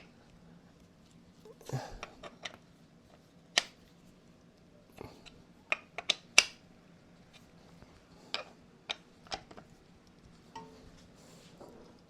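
Scattered light metallic clicks and clinks of metal parts and tools being handled while the grinder head is adjusted. There are about a dozen separate strikes over a faint steady hum.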